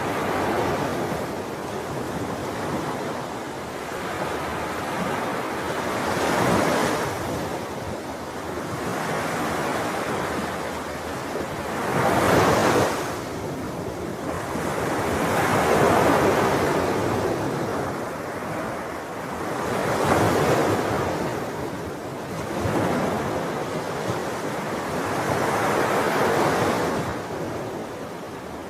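Sea waves breaking and washing in, a continuous rushing that swells with each wave every few seconds and ebbs between them, with the strongest wave about halfway through.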